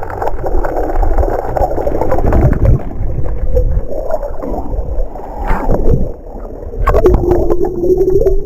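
Water sloshing and gurgling right against the camera's microphone, loud and muffled. A steady low tone comes in near the end.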